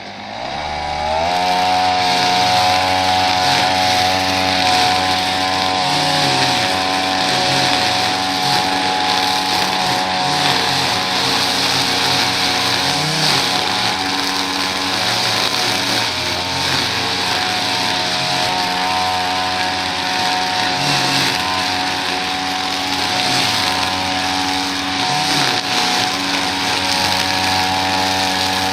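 Small two-stroke engine of handheld lawn equipment revving up about a second in, then running steadily at full throttle.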